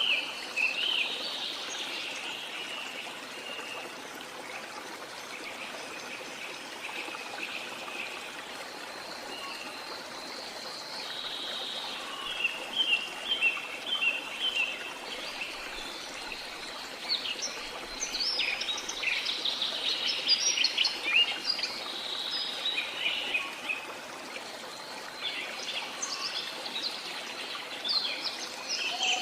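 Rainforest ambience: a steady rush of running water or rain with many birds calling over it, bursts of quick chirps and trills that grow busier from about the middle on.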